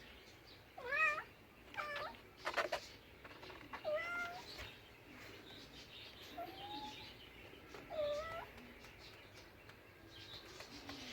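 Cat meowing repeatedly: about five or six short meows, each under a second, spread a second or two apart.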